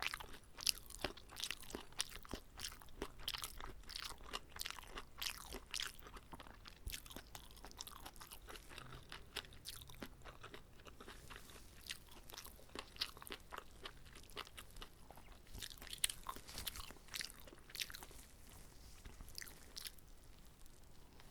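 Close-miked chewing of a whole uncut kimbap roll: many small crunches and moist mouth clicks, denser in the first few seconds and sparser toward the end.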